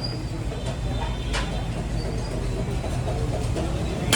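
Steady low mechanical rumble, with a sharp click about a second and a half in and another at the end.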